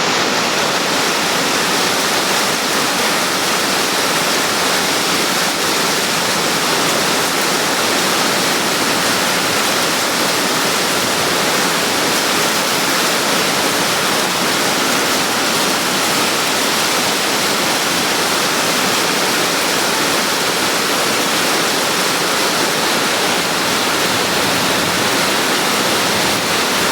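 Rain falling steadily, a dense, even hiss that does not let up.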